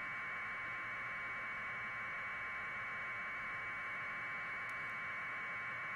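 Steady, even hiss of static with a slightly buzzy, mid-pitched tone and no change in level; nothing else is heard.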